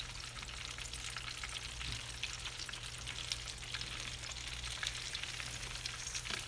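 Pretzel-crumb-coated chicken pieces frying in hot oil: a steady crackling sizzle with fine pops throughout.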